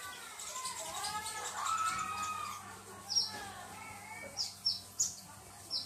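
A small bird giving short, sharp, high chirps, each sweeping downward, about five of them in the second half. Under the first half run fainter wavering sounds like distant voices, over a low steady hum.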